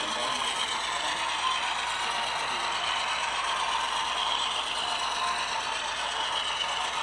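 Model train running on layout track, a steady mechanical running sound of wheels and motor.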